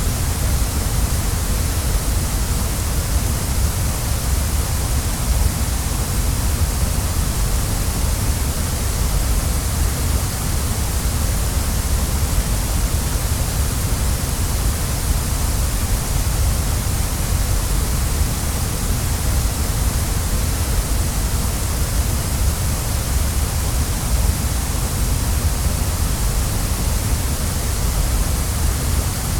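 Waterfall: the steady rush of falling water, even and unchanging throughout.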